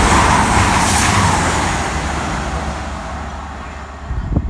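Class 222 Meridian diesel multiple unit passing through the station: a loud rush of train noise that peaks about a second in and then fades steadily as it draws away. A few sharp knocks near the end.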